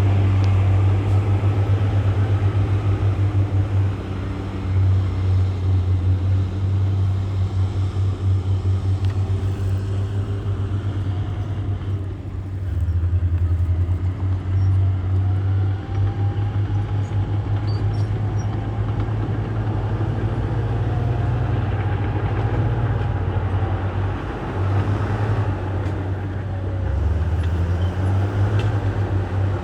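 Heavy diesel earthmoving machinery running, a low pulsing engine rumble whose level dips and swells every few seconds as the load changes.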